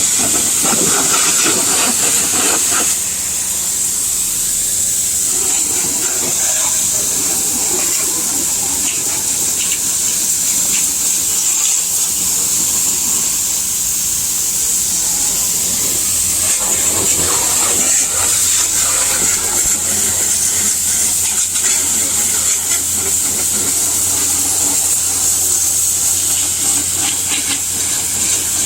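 High-pressure washer spraying water at a car wash, a steady loud hiss. A low steady hum grows stronger about sixteen seconds in.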